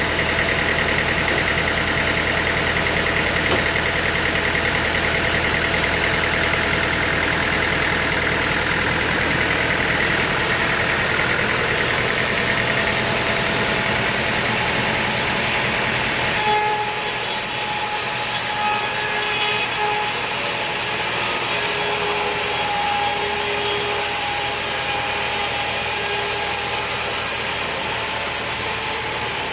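Sawmill machinery running with a steady engine note. About halfway through the sound changes abruptly to a lighter mechanical run with several held whining tones.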